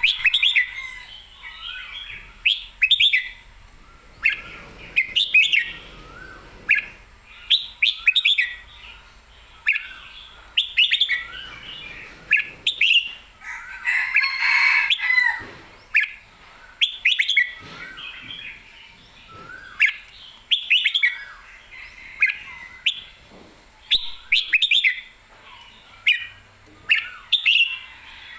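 Red-whiskered bulbul singing: short, loud, warbling phrases with quick rising and falling notes, repeated every second or two.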